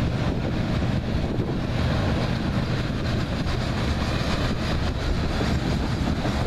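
Loaded coal hopper cars rolling past: a steady rumble of steel wheels on rail.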